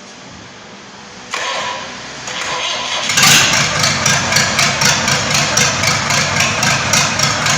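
Freshly rebuilt engine being started for its break-in run: the starter cranks for a second or two, the engine catches about three seconds in, then runs steadily with a regular pulsing beat.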